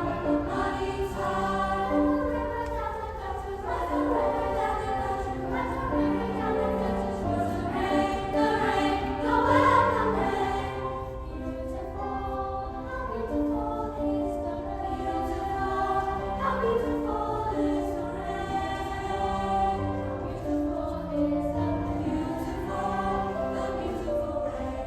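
Junior youth choir singing a choral piece with accompaniment. The held notes and moving lines swell loudest about ten seconds in.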